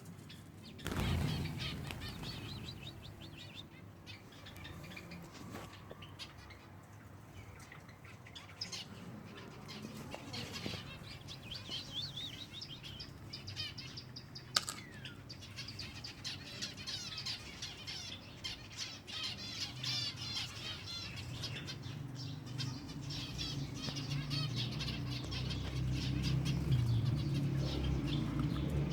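A group of silver Java sparrows chirping busily, with a steady patter of short calls and wings fluttering. A single sharp click comes about halfway through, and a low rustling noise grows louder over the last several seconds.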